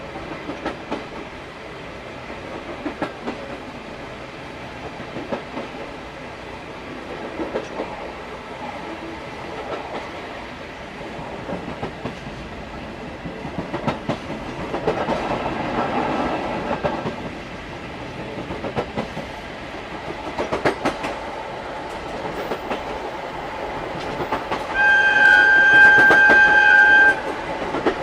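Rail-joint clickety-clack from the bogies of an old SuHaFu 42 passenger coach running behind electric locomotive EF58 61, heard from the coach's end vestibule. About 25 seconds in, the EF58's whistle gives one steady blast of about two seconds, the loudest sound.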